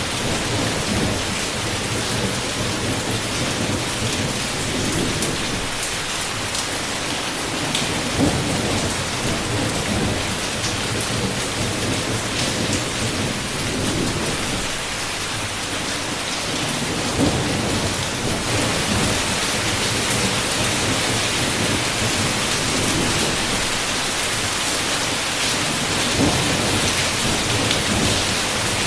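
Heavy rain falling steadily on a window, with low rolls of thunder swelling and fading several times and short louder peaks about 8, 17 and 26 seconds in.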